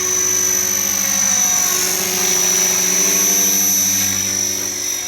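Align T-Rex 470LP electric RC helicopter running at flying speed: a steady whir from the rotor blades with a high electric-motor whine, shifting slightly in pitch about two seconds in.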